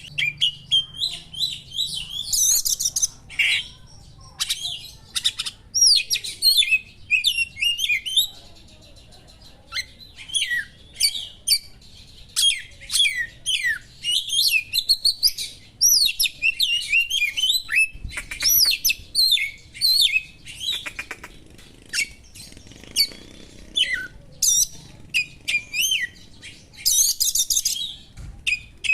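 Oriental magpie-robin (kacer) singing a fast, varied song of clear whistles, chattering trills and harsh notes. The song is packed with sharp imitations of small birds' calls.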